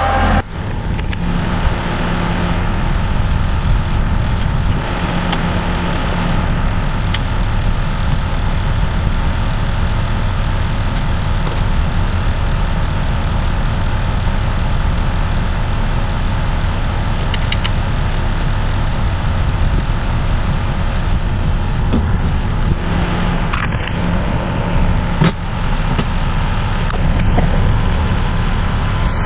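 Kubota tractor engine running steadily, with a few short knocks in the later part.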